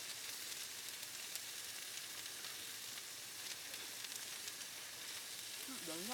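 Meat sizzling as it cooks: a steady hiss with fine crackling.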